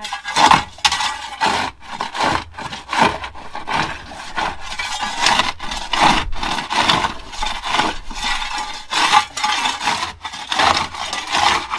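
Shovels scraping and digging into dry dirt and throwing it, in quick repeated strokes, as a trench over buried plumbing pipe is backfilled.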